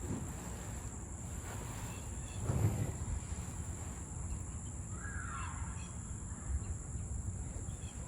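Faint handling sounds in a kayak, with one dull knock about two and a half seconds in and a brief bird call about five seconds in.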